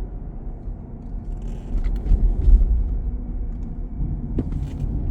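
Road traffic on a busy city street: a steady low rumble of passing cars.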